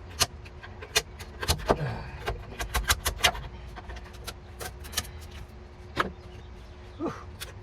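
Hand tool scraping and chipping old sound-deadening material off a car's sheet-metal floor pan: a string of irregular sharp clicks and scrapes, with a faint steady hum underneath.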